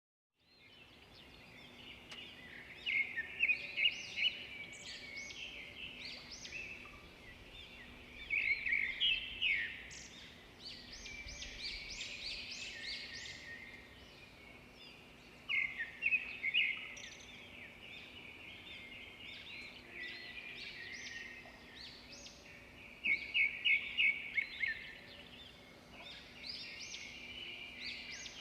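Birds chirping and singing, with louder bursts of quick calls every several seconds over a faint steady hum; the sound fades in from silence at the start.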